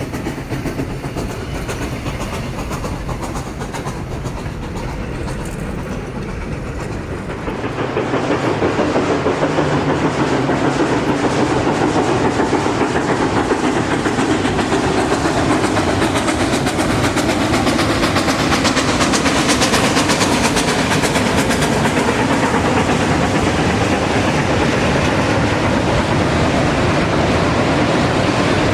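Duluth & Northeastern No. 28, a 1906 ALCO 2-8-0 Consolidation steam locomotive, running with its mixed freight train. The sound swells about eight seconds in into a loud, steady rush of the passing train on the rails.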